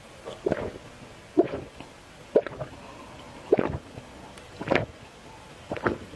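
Close-miked eating of noodles: short wet slurps and chewing noises, about one a second.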